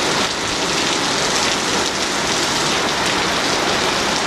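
Very heavy rain pouring down in a dense, steady hiss with no let-up.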